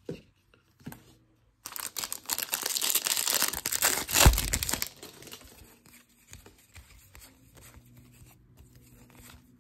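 Foil wrapper of a baseball card pack being torn open and crinkled, lasting about three seconds with a sharp snap near its end, followed by faint handling of the cards.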